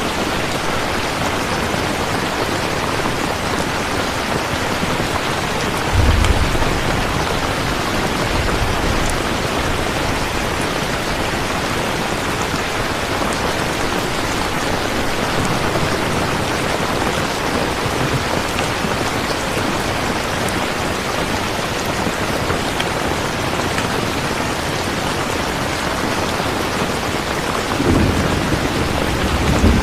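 Steady rain, with low rumbles of thunder about six seconds in, again a few seconds later, and once more near the end.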